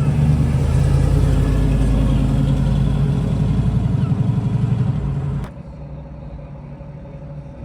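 Car engine running loud and steady, then cut off abruptly about five and a half seconds in, leaving a much quieter engine hum.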